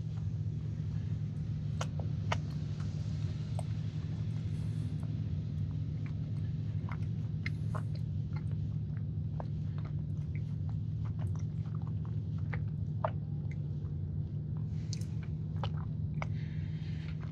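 Close-miked chewing of a chilled, iced sugar cookie: scattered soft mouth clicks and squishy bites over a steady low hum.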